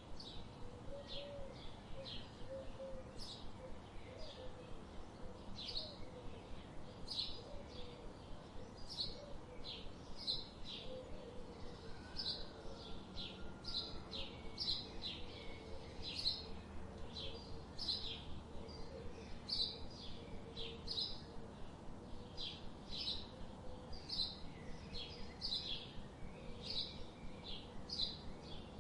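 Small birds chirping: short, high chirps repeating about twice a second, over a steady background hiss, with a fainter low wavering call underneath for much of the time.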